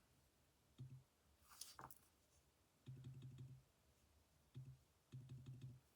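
Graphing calculator keys being pressed: faint clicks in several short runs, with a brief rustle about a second and a half in.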